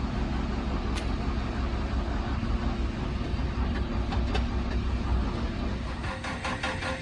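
Heavy diesel engine running with a steady low rumble; about six seconds in the rumble eases and a fast, even clatter comes in.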